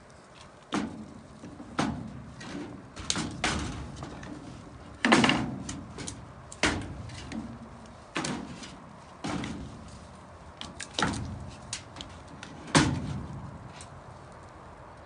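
An irregular series of hard knocks and thuds, roughly one a second, some with a short ringing tail.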